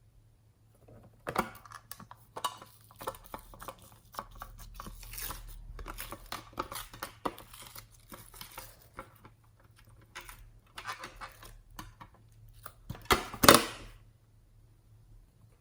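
Slime being handled and mixed by hand, making irregular crackling, popping and tearing sounds, with one louder burst near the end.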